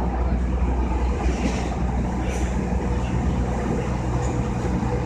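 Interior running noise of a JR East E233-2000 series electric commuter train between stations: a steady rumble of wheels on the rails with a faint steady hum, the pitch holding even at a constant speed.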